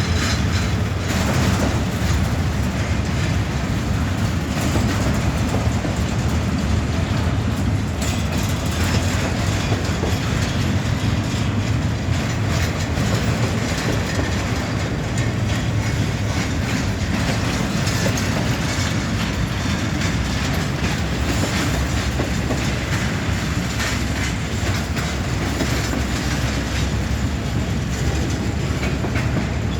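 Freight train rolling past: a steady rumble with the wheels clacking over rail joints.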